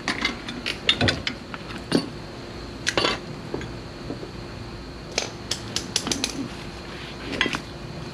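Hand tools and metal strut parts clinking and knocking against each other in irregular taps, the loudest about one, two and three seconds in, as a car's front strut assembly is worked apart by hand.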